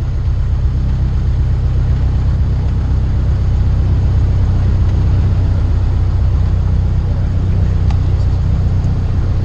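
Cessna 152's four-cylinder piston engine running steadily, a constant drone heard from inside the cockpit.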